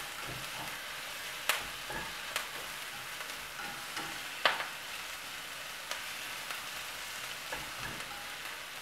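Crushed onion, curry leaves and whole spices sizzling steadily in oil in a frying pan while a plastic slotted spatula stirs them. The spatula knocks against the pan a few times, sharpest about four and a half seconds in.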